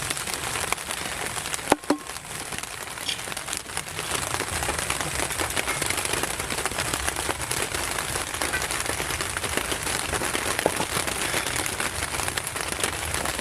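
Heavy rain pattering steadily on a plastic tarp shelter, with a single sharp knock about two seconds in.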